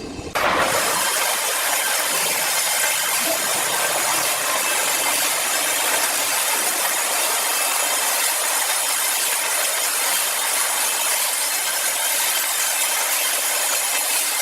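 Power saw cutting through wood, a steady high-pitched rasping cut that starts abruptly just after the start.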